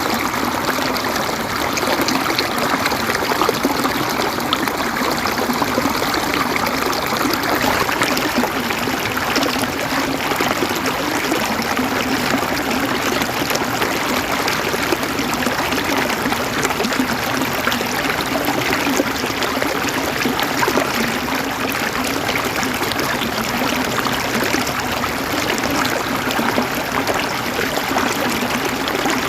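Flowing stream water running and trickling steadily, an even unbroken rush.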